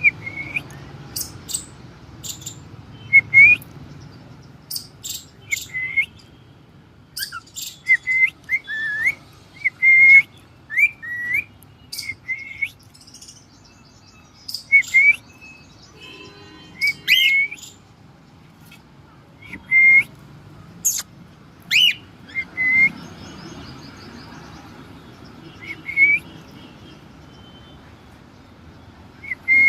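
Cockatiel chirping: short, rising whistled calls repeated irregularly, sometimes several close together, with a few sharp clicks between them.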